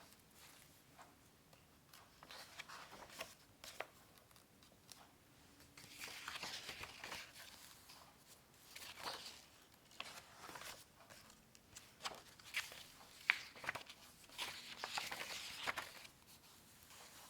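Dry scratching and rustling on paper, most likely from drawing strokes, in irregular runs of quick strokes with sharp ticks among them.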